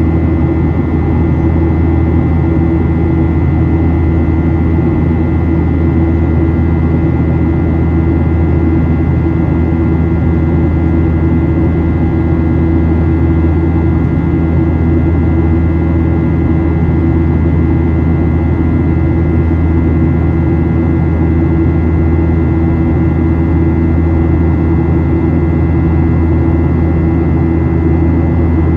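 Cabin noise inside a Boeing 737-800 climbing after takeoff: the steady roar of its CFM56-7B turbofan engines and airflow, with a faint steady whine on top.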